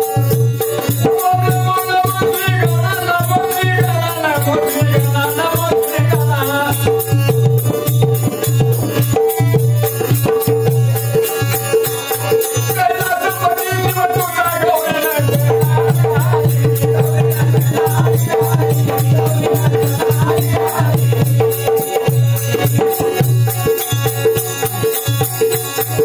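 Marathi shahiri folk music: hand drum and a shaken rattle keep a steady rhythm over a held drone, with sung melodic phrases a couple of seconds in and again around the middle.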